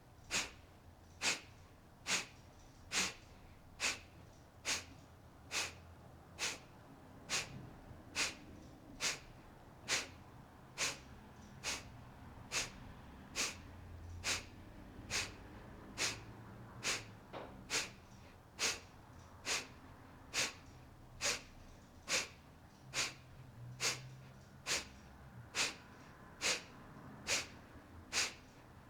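Kapalabhati (breath of fire): short, sharp, forced exhales through the nose in an even rhythm, a little more than one a second.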